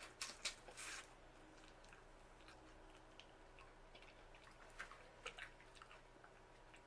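Faint eating sounds from a person working through a seafood boil: a few soft wet mouth clicks and smacks near the start and again around five seconds in, with quiet chewing between.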